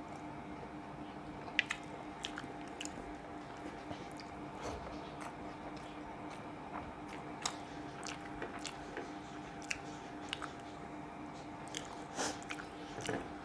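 Close-up eating sounds of a man chewing rice mixed with fish curry, eaten by hand: soft chewing with irregular sharp wet clicks and smacks. A steady low hum runs underneath.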